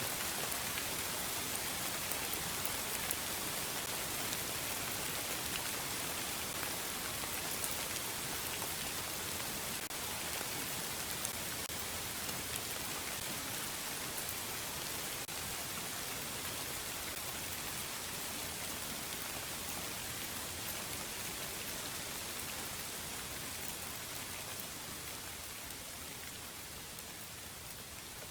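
Steady rain falling, an even hiss with scattered faint drop ticks, easing gradually quieter over the last few seconds.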